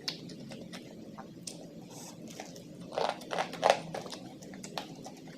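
A person chewing and biting food close to the microphone, with wet smacking clicks throughout and a cluster of louder bites about three seconds in.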